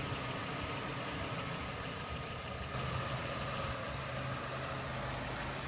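Steady low hum of an idling engine, with a faint steady high tone over it.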